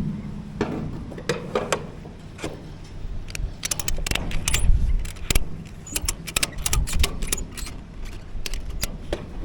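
A weathered, crusty ratchet strap being worked by hand: its ratchet and metal hook give many sharp, uneven clicks and clanks, thickest in the middle stretch. Gusty wind rumbles on the microphone underneath.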